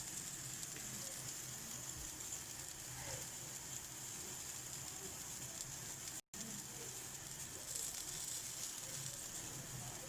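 Steady, faint sizzle of food frying in a tagine on the heat. The sound cuts out for an instant about six seconds in.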